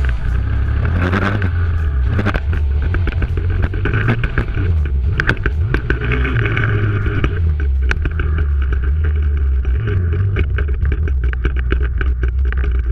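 Pit bike engine running, its pitch rising and falling with the throttle, with frequent knocks and rattles over it.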